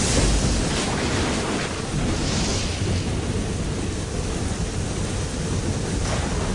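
Steady rushing of ocean waves, with gentle swells in the hiss.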